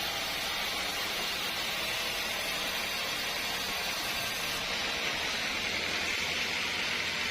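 Sawmill saw cutting through teak wood, a steady, unbroken hiss with no knocks or pauses.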